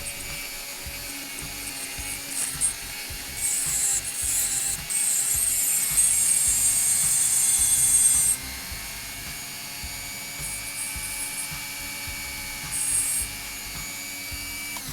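Small rotary tool grinding at cracked display glass: a steady high whine with harsh scraping that surges in and out, heaviest from about four to eight seconds in.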